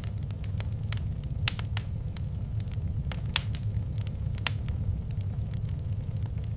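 Wood fire burning in a fireplace: a steady low rumble of the flames with scattered sharp crackles and pops, three louder pops about a second apart in the middle.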